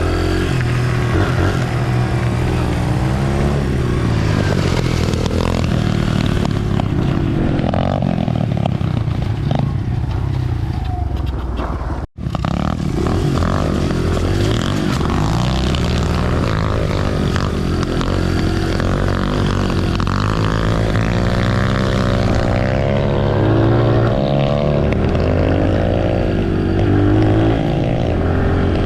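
Dirt bike engine running under way along a trail, its pitch rising and falling with the throttle. The sound cuts out for an instant about twelve seconds in.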